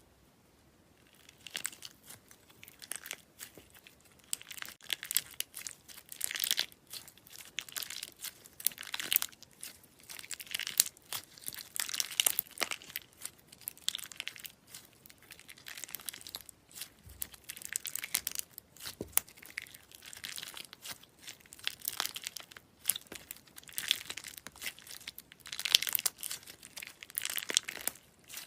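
Slime being worked by hand: a run of irregular crackling and crinkling sounds that keeps going, with no steady rhythm.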